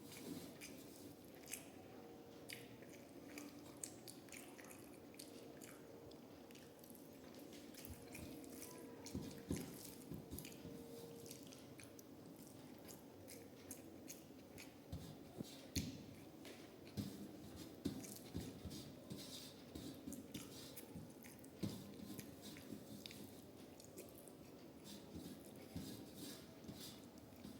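A person chewing a meal of rice and fish curry, quiet mouth sounds with scattered soft clicks and smacks, a few of them louder.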